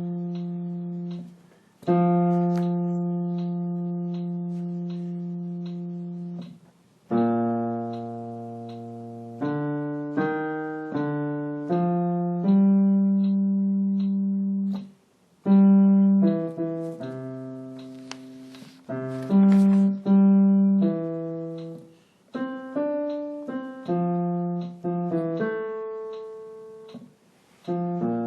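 Piano playing a single line of low notes, the bass voice part of a song for singers to learn: two long held notes, then a run of shorter notes, each struck and fading.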